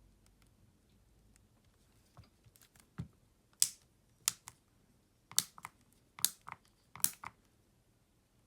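A series of sharp clicks and taps, like small tools and phone parts being handled and set down on a hard work surface. They come in small clusters, starting about three seconds in and ending after about seven seconds.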